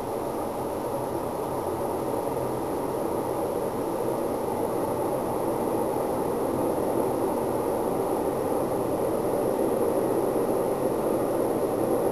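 An unexplained outdoor 'strange sound' of the kind called sky trumpets (Himmelsposaunen): a steady, noisy drone that slowly grows louder, with no identifiable source such as an airport or helipad.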